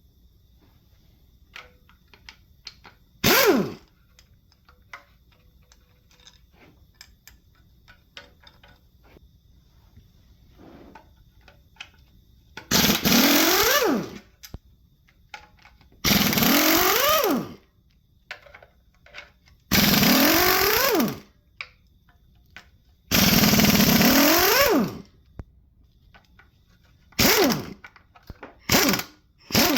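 An impact wrench fires in repeated bursts, most about a second and a half long, its pitch rising as it spins up and falling as it lets off, while bolts are loosened during an engine teardown. Light clicks and knocks come between the bursts.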